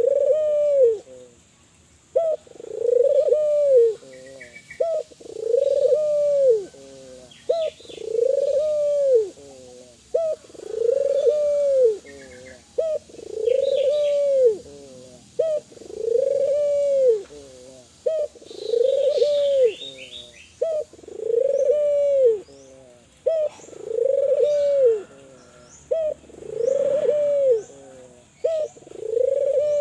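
Spotted dove of the Kelantan song strain cooing over and over, each phrase a short note followed by a longer arched coo, about once every two seconds. Faint high chirps of small birds sit behind it.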